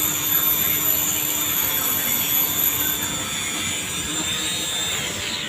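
A high-speed motorised tool whining steadily with a high pitch, then winding down and falling in pitch near the end.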